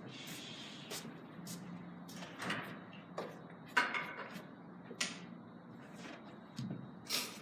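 Hard clicks of carom billiard balls and cue striking during three-cushion play, several spread over a few seconds, the loudest about four seconds in.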